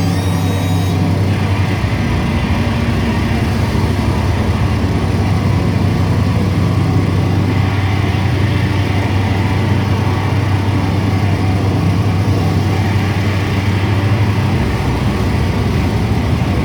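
Loud, steady wall of amplified noise from a live band's amplifiers and electronics: a low drone with dense hiss over it and no clear drumbeat. The lowest rumble thins out near the end.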